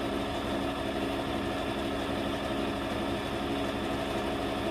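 Brother LX portable sewing machine running steadily as it stitches, an even motor hum with a pitched whirr.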